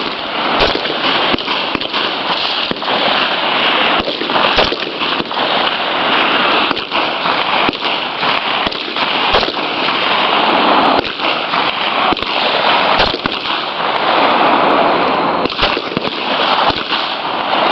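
Rifle fire from a firing line, many sharp shots at irregular spacing and overlapping, over a steady rushing noise.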